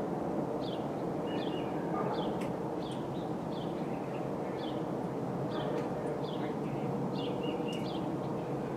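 A small bird repeats a short, high call that falls in pitch, about one and a half notes a second, with a few fainter chirps between them. Under it runs a steady low rumble of background noise, which is the loudest thing heard.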